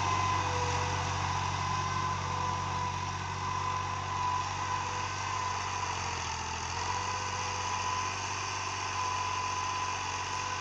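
Fiat 480 tractor's diesel engine idling steadily, a low even hum with a thin, slightly wavering high whine over it.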